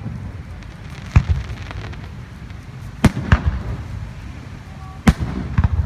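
Aerial fireworks bursting: four sharp bangs, the last two close together, over a continuous low rumble of the display.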